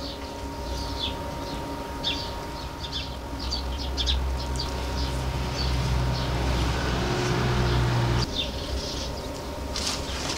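Small birds chirping in short, repeated calls over a steady low mechanical hum, which swells about four seconds in and cuts off abruptly about eight seconds in.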